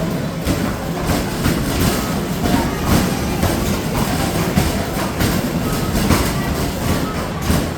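Arcade basketball shooting machine in play: basketballs knocking against the backboard and hoop and rattling back down the return ramp in quick, irregular succession, over a steady arcade din.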